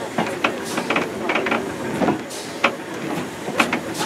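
Railway carriage running along the track, its wheels and running gear rattling with frequent irregular clanks over a steady rumble of rail noise, heard from an open-sided carriage.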